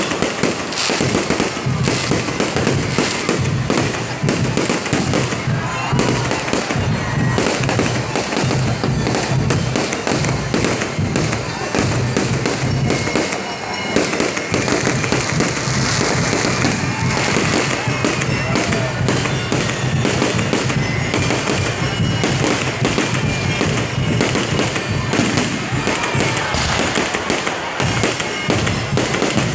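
Aerial fireworks going off without pause, a dense, overlapping run of crackling and popping bursts, with music and voices underneath.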